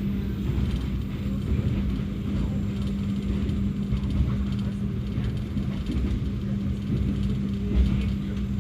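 Passenger train running: a steady low rumble with a constant hum.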